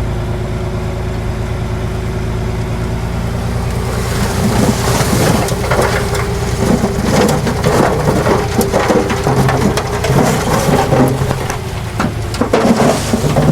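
A heavy diesel earthmoving machine running steadily. About four seconds in, a loud crunching, crackling rumble of soil and stones tumbling and breaking sets in over the engine and keeps going.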